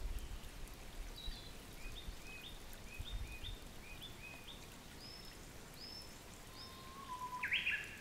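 Small wild birds calling: a quick series of short, high, arched notes, about two a second, with a louder, lower call near the end.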